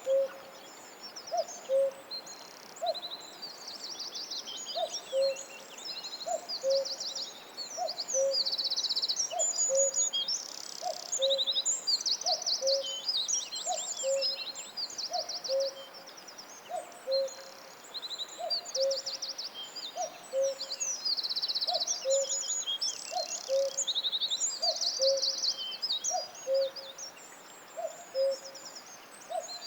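Several songbirds singing and chirping together in high trills, over a steady low two-note call, falling in pitch, repeated evenly about every three-quarters of a second.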